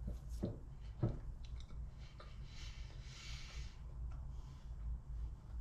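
Quiet chewing of a mouthful of crusty bread over a low steady hum, with two soft knocks about half a second and a second in and a soft hiss lasting about a second near the middle.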